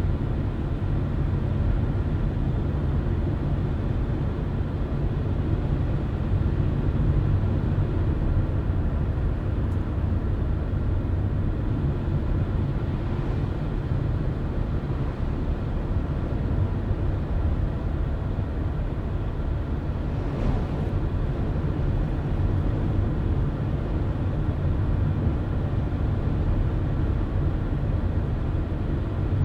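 Car driving at steady speed: an even low rumble of engine and tyres on the road, with a faint steady hum and no change in pace.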